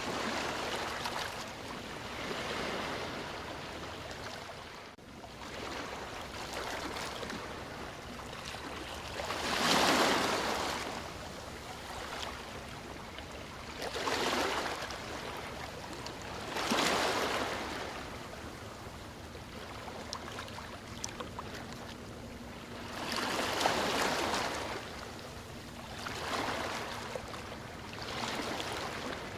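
Sea waves washing in and breaking, a steady rush that swells into a louder surge every few seconds, the biggest about ten seconds in.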